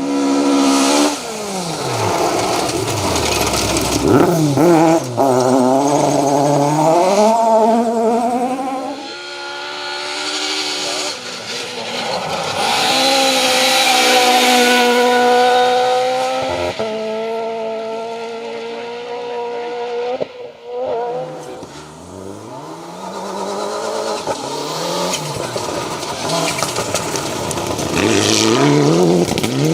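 Rally car engines at full throttle, revving up through the gears. The engine note rises in pitch and drops back on each gear change as the cars pass at speed, with a run of quick upshifts near the end.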